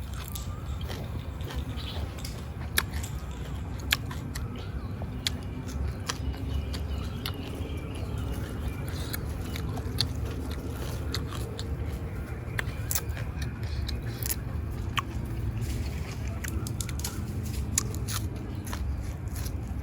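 A person chewing and biting into raw beef (choi ju) with crunchy fresh vegetables: wet chewing with scattered sharp clicks over a steady low rumble.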